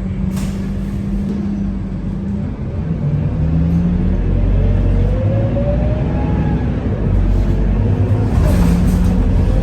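Scania K230UB city bus's diesel engine heard from on board. It runs steadily, then from about three seconds in it accelerates, its note rising in pitch. About seven seconds in the note drops at a gear change and climbs again.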